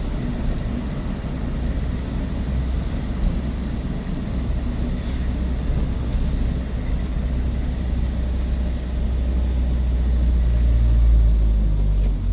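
Engine of a Mazda B-series pickup running on Holley Sniper throttle-body fuel injection, heard from inside the cab while driving in town, with a steady low road rumble. The engine note swells for a couple of seconds near the end, then eases off.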